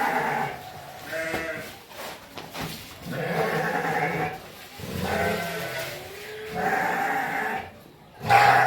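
Sheep bleating repeatedly: about five drawn-out calls with short gaps between them, the loudest one near the end.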